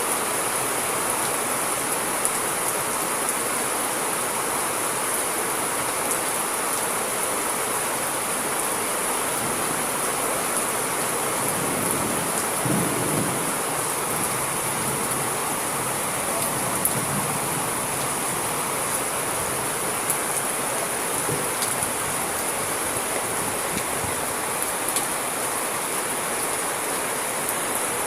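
Steady heavy rain falling, with scattered drop ticks and a short low rumble of distant thunder about halfway through.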